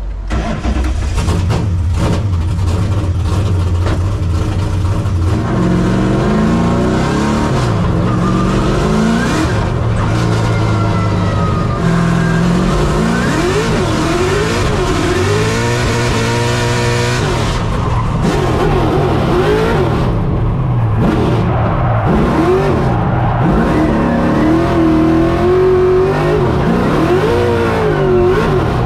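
Nissan 240SX (S14) drift car's engine being driven hard on a track: it runs fairly steadily at first, then from about halfway on it revs up and down again and again, its pitch rising and falling in quick sweeps.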